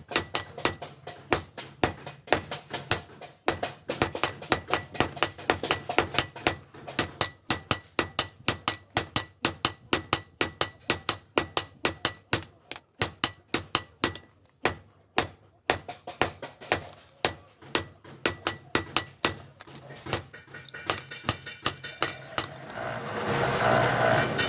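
Hand hammer striking hot steel on an anvil in a quick, steady rhythm of about four blows a second, with a ringing anvil tone and a brief pause midway, as the bellhook machete blade is forged. Near the end the hammering gives way to a steady rushing noise.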